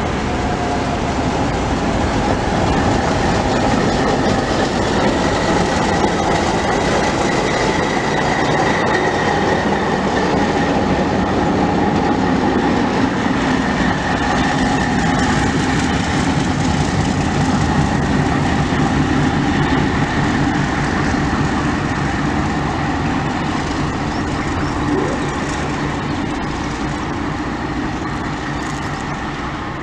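Diesel-hauled passenger train rolling past. The locomotive's engine runs under a steady high tone, and the wheels click over the rail joints, fading away near the end.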